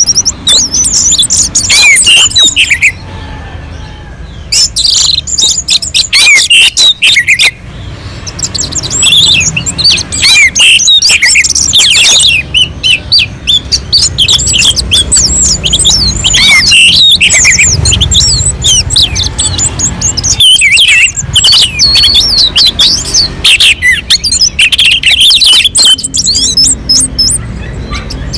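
Orange-headed thrush singing in full, nonstop song: rapid, varied phrases of high gliding notes, with brief lulls about three and seven seconds in.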